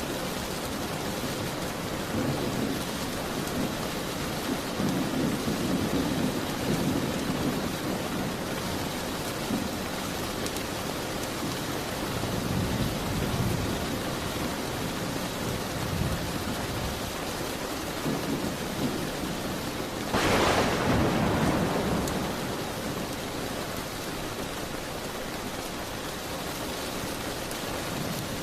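Steady heavy rain on a window, with low rolls of thunder coming and going and a sharper, louder thunderclap about two-thirds of the way through that fades over a second or two.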